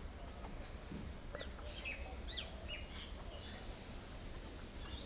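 Wild birds chirping: a string of short chirps and whistles, most of them in the middle stretch, over a steady low background rumble.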